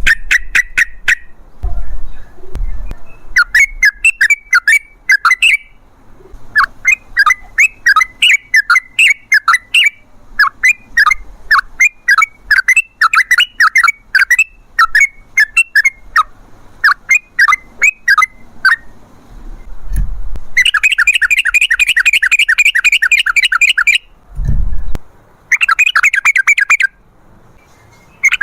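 Yellow-vented bulbul (trucukan) singing a long, rapid song of sharp chattering notes in quick runs. Near the end come two dense, buzzy trills lasting a few seconds each, with a few dull low thumps underneath.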